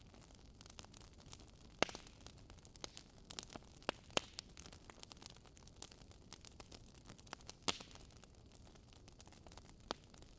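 Wood fire crackling in a fireplace: a faint steady hiss broken by frequent small ticks and a handful of sharper pops, the loudest about two seconds in and again near eight seconds.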